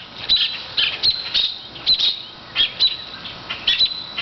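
Birds giving short, sharp, high alarm calls, about two a second: agitated birds scolding a dog that is harassing them.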